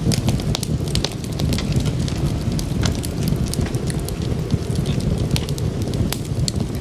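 Wood fire crackling in a fireplace: frequent sharp pops and snaps, several a second, over a steady low rumble.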